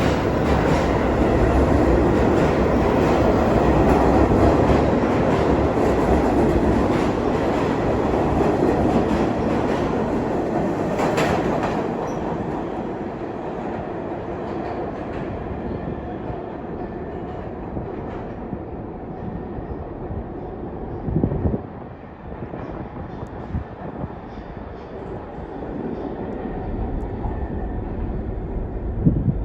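New York City Subway train on the A line rumbling and clattering over the rail joints, loudest at first and then fading as it moves away, with a sharp clack about eleven seconds in.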